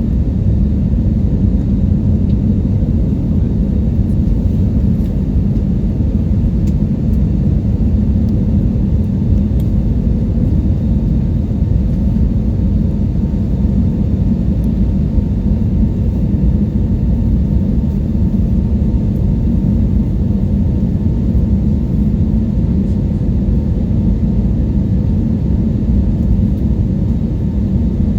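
Steady low drone of an airliner cabin in flight, engine and airflow noise, with a faint steady whine above it.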